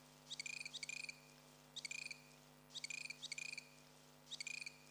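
A small animal calling in short, buzzy chirps, six in all and some in close pairs, over a faint steady hum.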